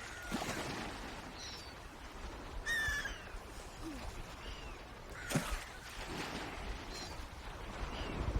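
Wild birds calling: short falling chirps about once a second, with a louder call that has clear overtones about three seconds in and another loud call about five seconds in, over a low rumbling background.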